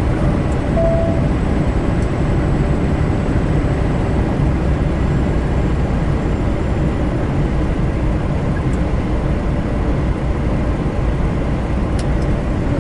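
Steady engine and road noise inside a big rig's cab while driving on a wet highway, with a short tone about a second in.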